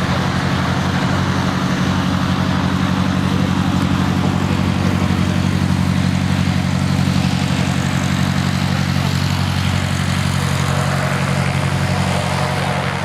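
A steady low engine drone, even in pitch and level throughout.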